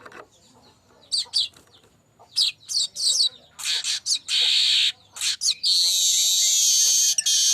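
Streaked weaver (manyar kembang) singing: a run of short high chirps, then buzzy wheezes, building to a long buzzing trill that lasts about two and a half seconds near the end.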